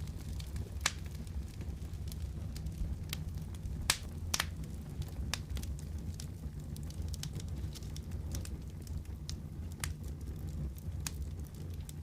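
Wood fire crackling in a fireplace: a steady low rumble of flames with scattered sharp pops and snaps, the loudest about a second in, twice around four seconds in and near ten seconds.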